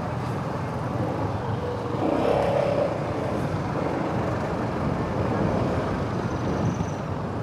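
Motorcycle riding in street traffic: steady engine and road noise, with other vehicles around. A short pitched sound rises above it about two seconds in and lasts under a second.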